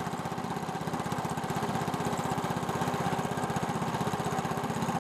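Small fishing boat's engine running steadily with a fast, even beat, cutting off suddenly at the end.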